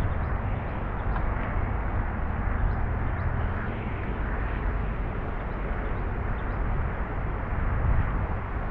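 Steady outdoor noise: a low rumble under an even hiss, with a few faint, short, high chirps scattered through it.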